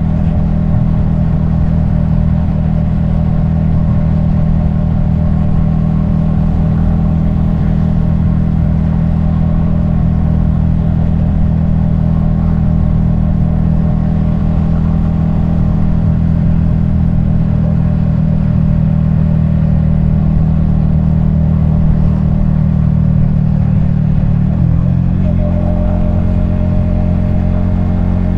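Yamaha XSR155's 155 cc single-cylinder engine and exhaust running steadily while riding. Near the end its note dips briefly, then settles to a new steady pitch.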